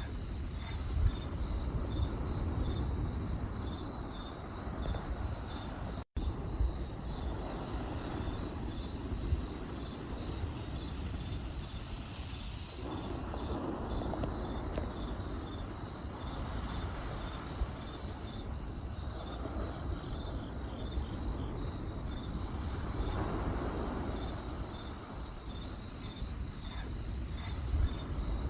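A campfire crackling and hissing with occasional sharp pops, under the steady, evenly pulsing chirping of crickets. The audio cuts out for a split second about six seconds in.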